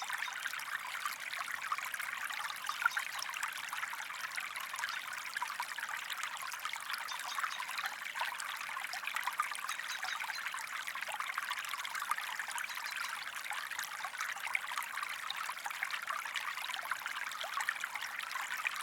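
Recorded stream water trickling and flowing steadily, a water-flow background track with fine splashing detail and no other sound.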